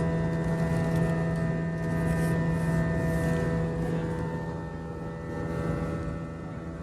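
Steady hum of an Airbus A321 cabin's air-conditioning and aircraft systems: a constant low drone with several steady higher tones over an even rush of air.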